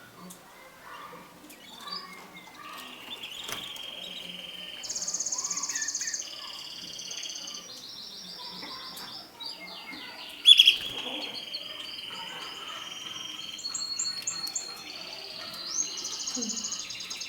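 Mosaic canary singing: a continuous song of rapid trilled phrases, each a quick run of repeated notes held for a second or two before switching to a new pitch. One sharp, loud note comes about ten seconds in.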